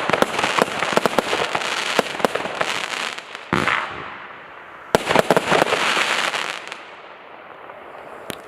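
Fireworks going off: rapid sharp reports and crackling in dense volleys, a fresh burst about three and a half seconds in and another volley about five seconds in, then fading to a few scattered pops near the end.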